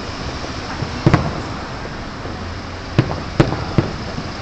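Fireworks bursting in the distance: a quick double bang about a second in, then three more bangs close together around three seconds in, over a steady background hum of traffic and crowd.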